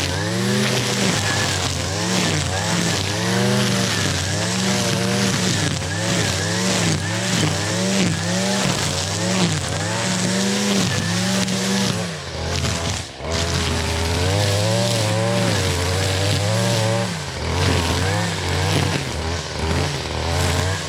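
Gas string trimmer (weed eater) with a string head, its small engine revved up and down about once a second as it cuts tall grass and weeds, easing off briefly about twelve seconds in before revving again.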